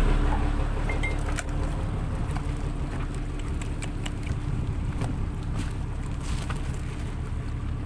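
A boat's engine idling with a steady low rumble, with scattered light taps and knocks over it.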